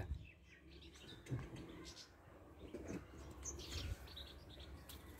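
Faint outdoor background with a few small birds chirping, mostly about three to four seconds in.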